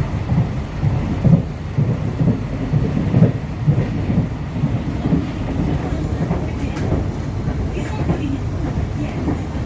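Passenger train running along the track, heard from inside the coach: a steady low rumble from the wheels on the rails, with irregular surges and a few faint knocks.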